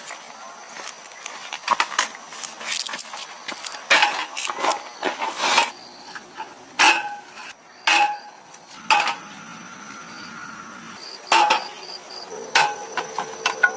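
Irregular sharp knocks and clinks, several with a brief ring after them, like utensils or cookware striking each other, over a steady high buzz of insects.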